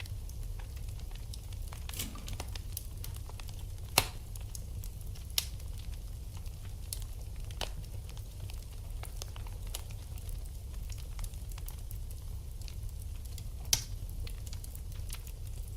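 Wood fire burning in a fireplace, with a steady low rumble and scattered crackles. Sharp pops stand out about four seconds in and again near the end.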